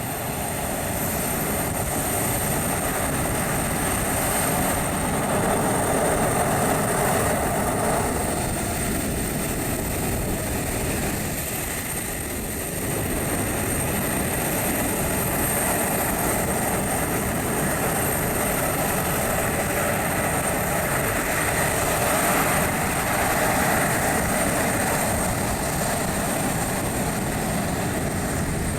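Jet airliner's turbofan engines running steadily at taxi power: a continuous rumble and rush with a thin high whine, swelling slightly now and then.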